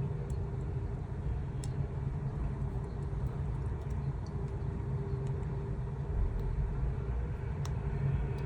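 Steady low background rumble and hum, with a few faint small clicks from tiny parts being handled during the Walkman gear fitting.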